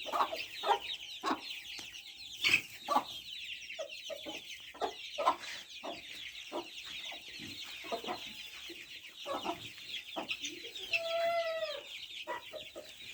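Chickens clucking in short, repeated calls, with one longer drawn-out call about eleven seconds in, over a constant high twittering.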